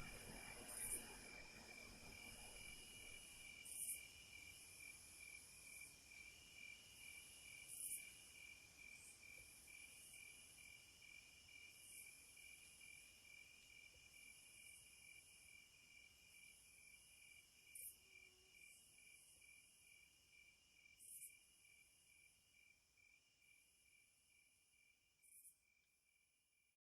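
Crickets chirping in a steady, fast pulsing trill, with short higher-pitched insect calls every few seconds. The whole chorus fades out gradually toward the end.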